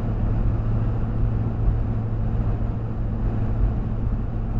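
Steady driving noise of a car on the road, heard from inside through a dashcam: tyre and engine drone with an even low hum.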